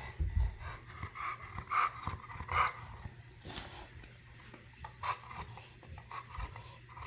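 Bulldog "talking": short vocal grumbles and whines in separate bursts, three or four in the first three seconds and another about five seconds in.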